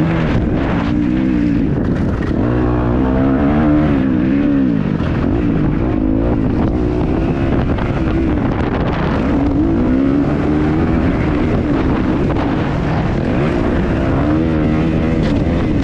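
Kawasaki KX250F four-stroke single-cylinder motocross engine revving hard and backing off again and again, its pitch rising and falling every second or two as the bike is ridden around a dirt track.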